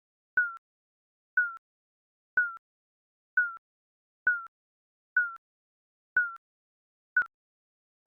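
Digital countdown timer beeping once a second: each beep is a short, high electronic tone that dips slightly in pitch, with silence between beeps.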